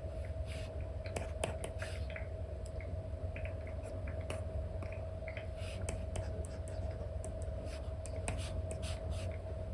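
Apple Pencil with an Elecom nib stroking and tapping on an iPad's paper-like screen film: irregular short scratchy strokes and light taps, over a steady low hum.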